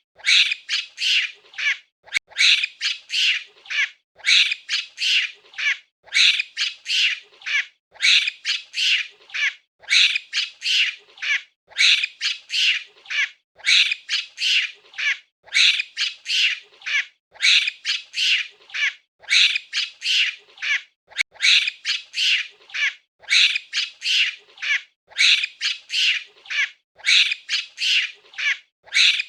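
A monkey giving short, shrill, high-pitched calls, several a second, in bursts that repeat about every two seconds.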